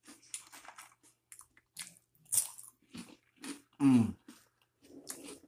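Close-up crunching and chewing of Cheetos Hot Fries, a crisp corn snack, in a series of sharp crackly bites. About four seconds in, a short vocal hum falling in pitch stands out as the loudest sound.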